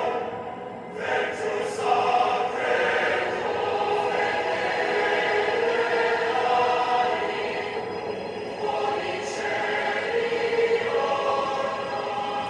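Choir singing sustained chords as part of a film-logo music cue.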